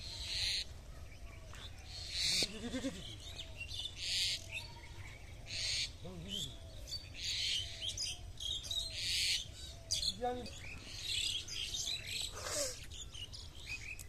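Birds calling outdoors: a short, harsh high call repeats about every one and a half to two seconds, with smaller chirps and a few lower short calls between, over a steady low rumble.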